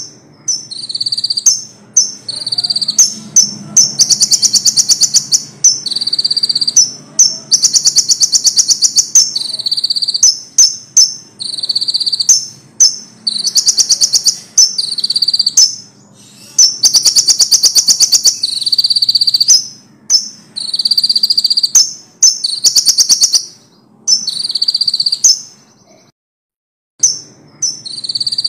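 Konin songbird singing loudly in repeated high phrases of fast trills and whistled notes, each a second or two long with short pauses between them, a brief silence near the end. Its song is filled with phrases learned from other songbirds such as the ciblek, lovebird and canary.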